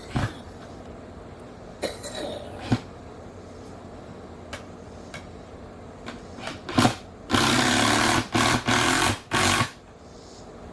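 Scattered knocks of building work, then a power tool running in four short bursts about seven seconds in, the loudest sound here.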